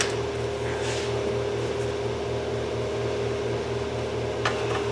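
A steady mechanical hum of a running motor, with a few short sharp taps near the start and about four and a half seconds in, typical of a metal punch being set against a broken bolt.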